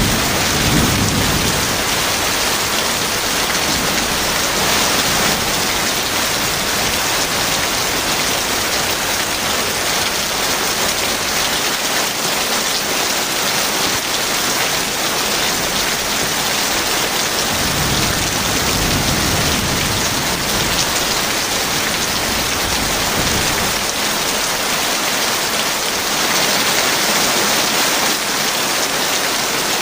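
Heavy rain falling steadily, a constant hiss and patter. A low rumble of thunder fades out at the start and another rolls in about two-thirds of the way through.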